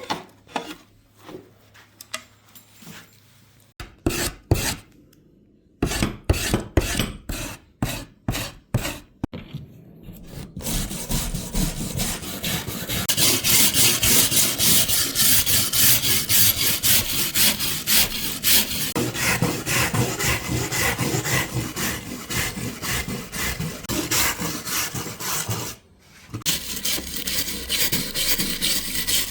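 A hand tool worked back and forth over wood. First come separate strokes a few times a second, then from about ten seconds in a fast, continuous run of strokes, which stops briefly near the end and then starts again.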